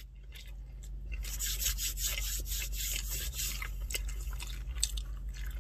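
A person chewing a mouthful of chicken sandwich close to the microphone. Wet, smacking mouth noises with many soft clicks start about a second in.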